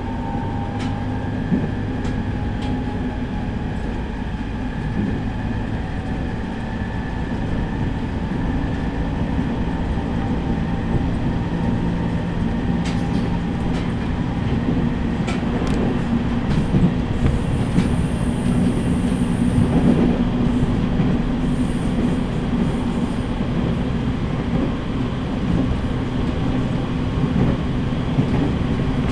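Running sound inside a JR East E501 series electric train at speed. The traction motors hum and whine in a tone that drifts slowly in pitch, and the wheels clack over rail joints. A brief high wheel squeal comes a little past the middle.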